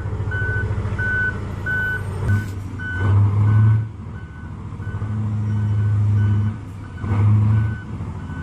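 Mining haul truck's reversing alarm beeping steadily, about one and a half to two beeps a second, over the low drone of its large diesel engine, which swells and eases several times as the truck works.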